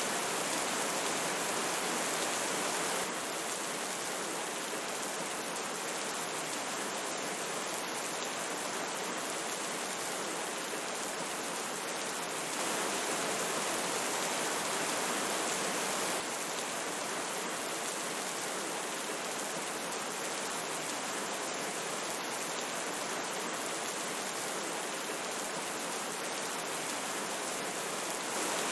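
Rain falling together with a flowing river, a steady wash of water noise. Its level drops abruptly about three seconds in, jumps back up for a few seconds near the middle, and rises again at the very end.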